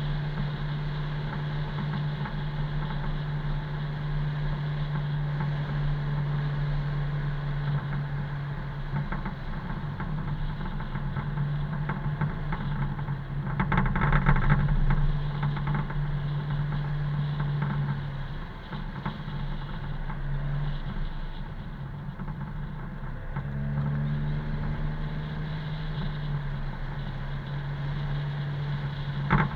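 Car engine and road noise while driving: a steady low engine drone under a rushing haze. The noise gets louder and rougher for a second or two about halfway through. The drone fades out for a few seconds about two-thirds through, then comes back.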